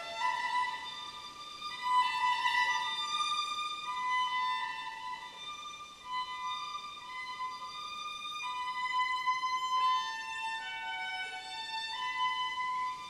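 Solo violin playing a slow, high melody in long held notes, climbing in pitch near the end.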